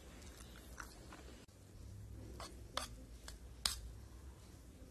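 A person chewing a mouthful of Maggi instant noodles close to the microphone, with a few sharp wet smacks and clicks of the mouth, the sharpest near the end.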